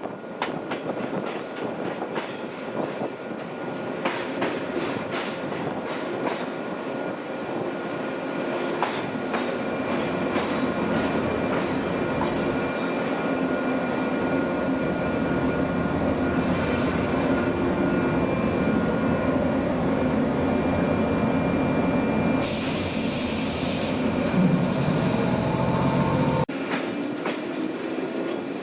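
Old JNR-type electric train running on the rails, wheels clicking over rail joints with some wheel squeal. The running noise grows louder as it gathers speed. Near the end the sound breaks off suddenly, then a rising motor whine follows.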